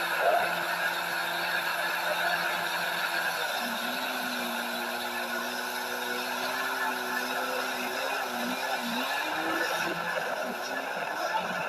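Jet ski engine running over a steady hiss; its pitch shifts about three and a half seconds in, then wavers up and down near the end.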